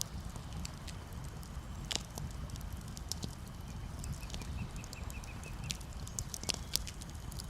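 Campfire crackling, with irregular sharp pops and snaps over a low steady rumble. About halfway through there is a short run of high chirps, about five a second.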